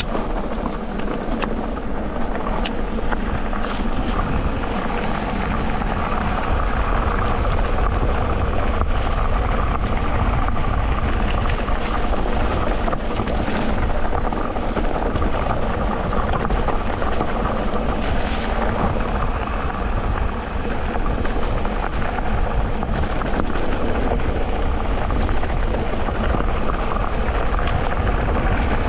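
Electric mountain bike ridden over a dirt trail: a steady motor drone over continuous tyre and trail rumble, with a few sharp clicks and rattles from bumps.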